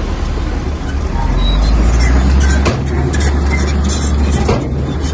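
Bulldozer's diesel engine running heavily under load, growing louder about a second in, with two sharp knocks, one midway and one near the end.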